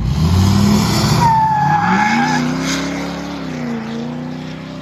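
A vehicle doing a burnout: the engine revs up suddenly and hard, the tires squeal for about a second, then the engine holds at high revs and eases off a little near the end.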